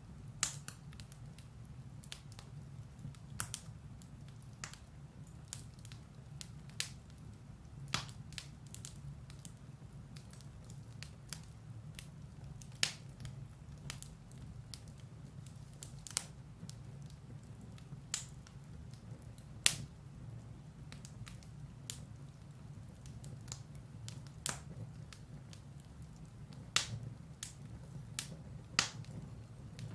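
Firewood burning in a fireplace, crackling with irregular sharp pops, a few much louder than the rest, over a steady low rumble of the flames.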